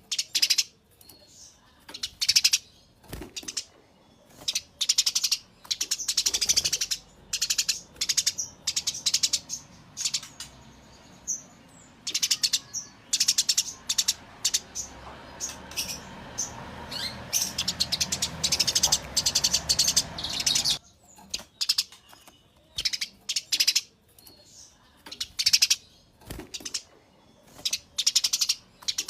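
Eurasian tree sparrow (burung gereja) chirping in short, rapid bursts about once a second, the excited 'fighting' chirps of an agitated bird. A steady low background noise rises under the chirps through the middle stretch.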